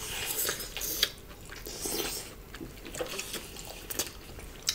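Close-up mouth sounds of people eating by hand: wet chewing and lip smacking, with scattered short clicks.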